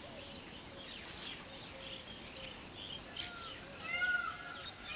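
Weaver birds chattering at a nesting colony: many short overlapping chirps and calls, with a few louder arched calls in the last couple of seconds.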